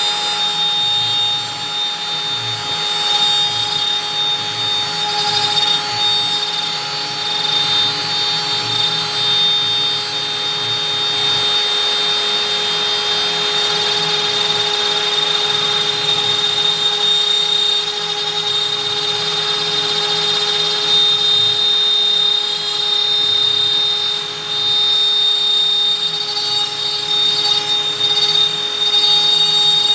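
Stepcraft M1000 CNC router's spindle running at 25,000 rpm, its 4 mm two-flute up-down compression bit cutting out a beech workpiece. A steady high whine over cutting noise, swelling and easing slightly as the bit moves along the cut.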